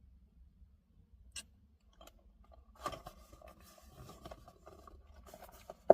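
Handling noise: small scraping and rustling, a click about a second and a half in, and one sharp knock near the end.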